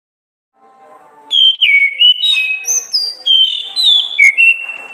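Orange-headed thrush (anis kembang) singing a phrase of clear, loud whistled notes that step and slur up and down, after a soft lead-in of quieter notes.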